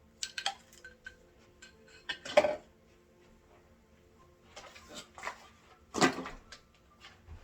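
Hard plastic vacuum attachments and their packaging being handled: scattered clicks and knocks with a few louder rustling scrapes, the loudest about two seconds in and about six seconds in.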